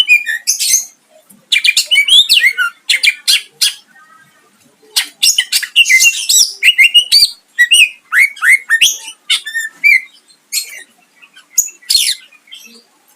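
Cucak ijo (green leafbird) singing in fast, varied bursts of chirps, whistled notes and harsh calls, with sharp rising and falling sweeps. The song comes in several loud phrases with short pauses between them.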